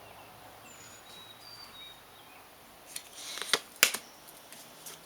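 Tarot cards being handled: a short burst of shuffling rustle with a few sharp snaps about three seconds in. Faint high bird chirps come earlier.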